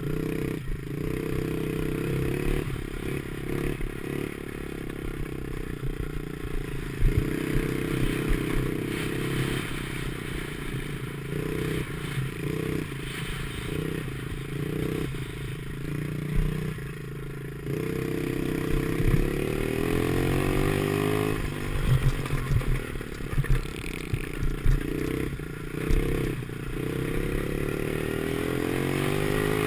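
Small 50cc pit bike engine being ridden, its revs repeatedly rising and falling as the throttle opens and shuts, mixed with frequent short knocks and rattles.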